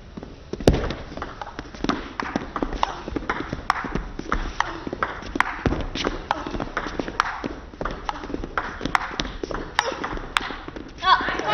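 Table tennis rally: the plastic ball clicking off the bats and bouncing on the table in a quick, uneven series of sharp ticks, about two or three a second, in a large hall. Near the end the crowd breaks into cheering as the point is won.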